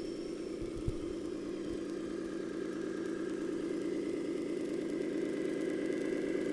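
Engine sound of an RC scale model vehicle running steadily at an even, idle-like pace, growing slightly louder, with a single sharp click about a second in.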